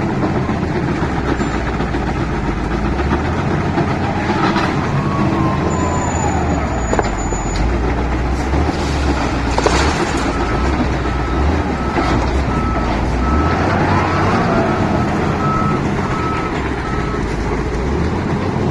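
Heavy diesel engine of a wheel loader running under work, with pitch rising and falling twice. A reversing alarm beeps in an even series for several seconds past the middle, and a couple of sharp knocks stand out.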